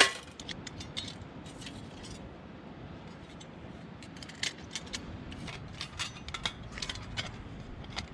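Small clicks and taps of camp fire-lighting gear being handled: one sharp click at the start, then scattered light clicks over a low steady hiss from about four seconds in.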